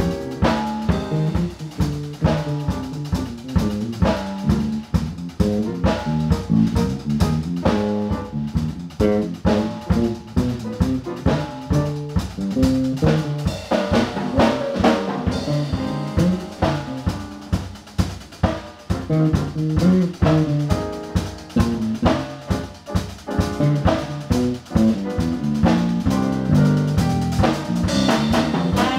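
Live jazz quartet playing, with the drum kit to the fore: busy snare and rimshot strokes and bass drum over piano and bass lines.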